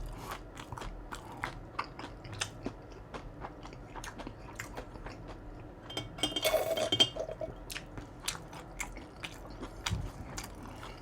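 Close-miked chewing with small crisp crunches, a person eating fried food such as crab rangoons. A brief louder noise comes about six seconds in.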